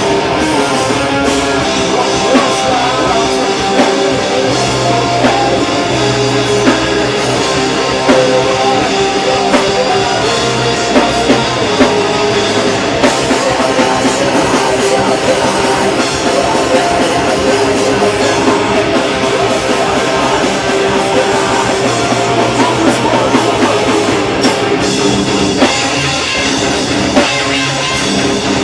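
A heavy rock band playing live and loud, with electric guitars and a drum kit.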